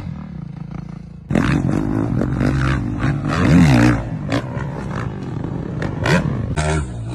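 Dirt bike engine revving up and down, with a sudden loud burst about a second in and repeated knocks and clatter.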